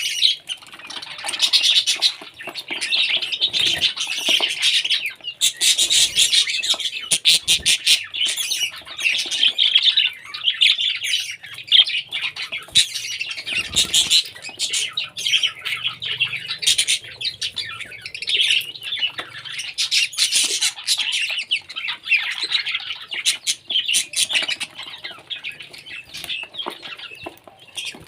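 Parrot squawking and chirping almost without pause, in a busy run of short, harsh calls mixed with sharp clicks.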